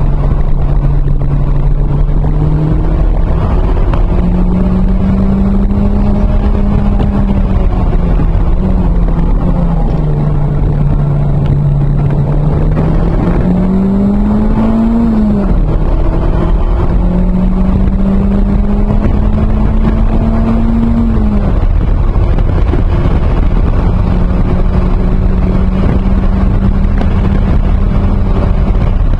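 Turbocharged 2.0-litre four-cylinder engine of a 1993 Toyota MR2 Turbo (GT28RS turbo) heard from inside the cabin under hard track driving, over heavy road and wind rumble. The engine note climbs and drops several times as the car accelerates, shifts and slows, then holds steady near the end.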